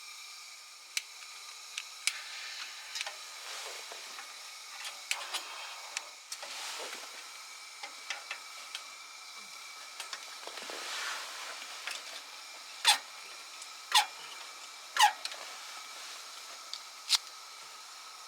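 Wood fire burning with a steady hiss and scattered small crackles, then four loud sharp pops in the second half.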